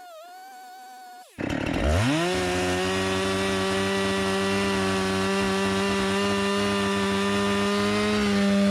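Husqvarna 390XP two-stroke chainsaw, a 24-inch bar with chisel chain, revved up from low speed about a second in and held at steady full throttle while cutting into wood.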